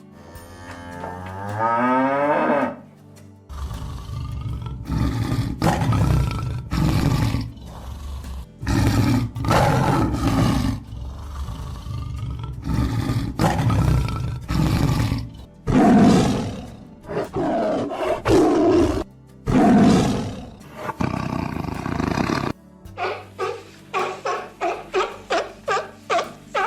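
Tiger roaring and growling in a string of long, rough calls over background music. Near the end a quicker, regular pulsing sound takes over, about two or three pulses a second.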